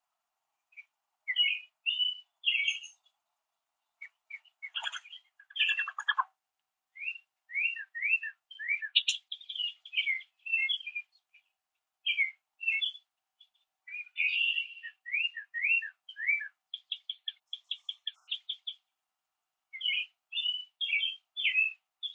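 Small songbird chirping and singing: runs of short, quick, downward-slurred notes in bursts, with a fast trill of evenly repeated notes about two-thirds of the way through.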